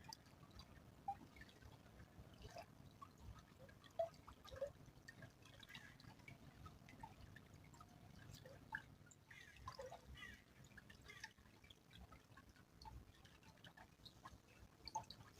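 Small stream trickling faintly, with many scattered drips and plinks of water.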